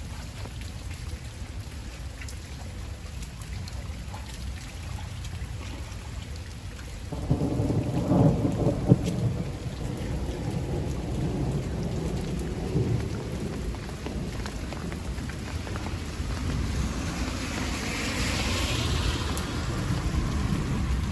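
Heavy rain falling steadily, with a low roll of thunder that starts about seven seconds in, is loudest a second or two later and rumbles on for several seconds.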